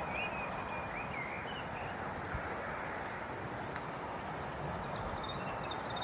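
Small songbirds chirping in short warbling phrases, higher and quicker notes near the end, over a steady outdoor background hiss.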